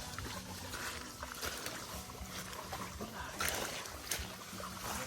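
Water splashing and sloshing irregularly, with scattered short splashes and knocks.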